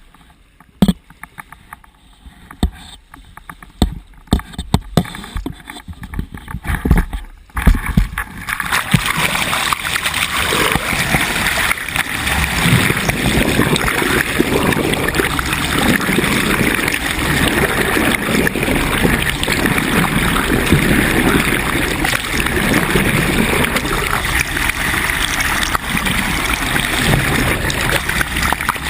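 A few sharp knocks, then from about eight seconds in a steady rushing and gurgling of water along a sailboat's hull as it moves under way.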